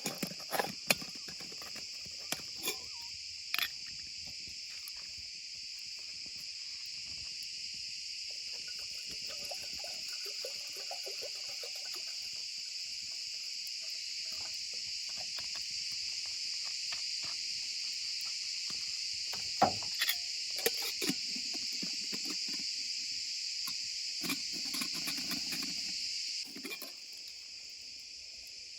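Steady, high-pitched insect chorus droning on and dropping away near the end, with a few sharp clicks and knocks scattered through it.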